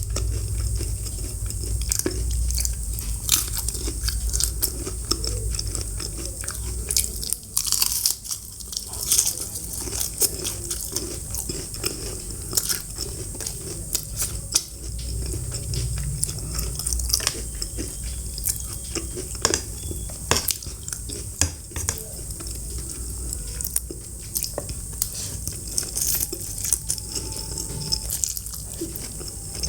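Close-miked eating: crunchy bites and chewing, with sharp crackles at uneven intervals.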